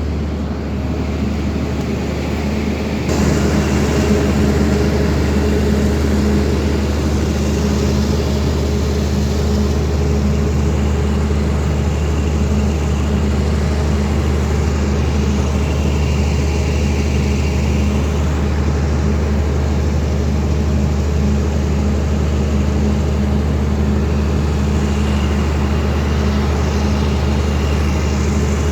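Steady rain with a continuous low mechanical hum under it, as from a running engine or motor, growing louder about three seconds in.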